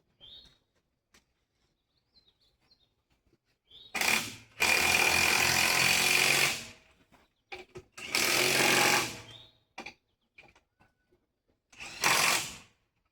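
Impact wrench running in three bursts, the first about two and a half seconds long and the next two shorter, with a steady high whine over the hammering rattle: running lug nuts on a mud truck's wheel during a tire change.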